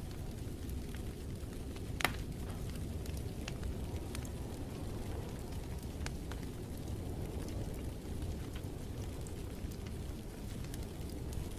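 Wood fire burning in a fireplace: a steady low rumble with scattered small crackles and one louder pop about two seconds in.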